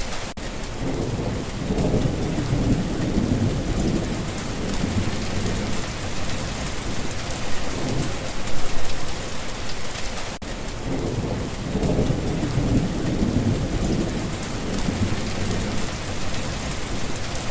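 Steady rain with low rolling thunder that swells twice, about two seconds in and again about twelve seconds in.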